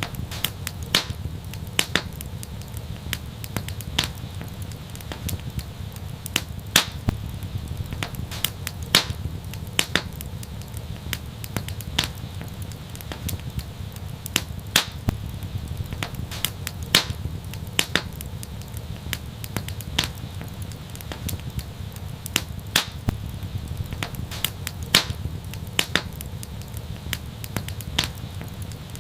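Wood fire crackling in a fireplace: sharp pops and snaps at irregular intervals over a steady low rumble of burning.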